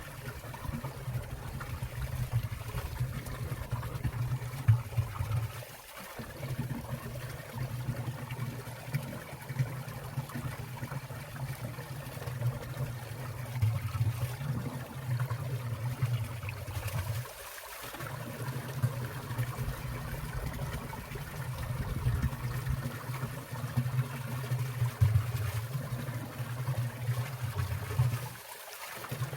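Water of a winter valley stream splashing and trickling down past icicles, a steady rushing with a low rumble that dips briefly three times.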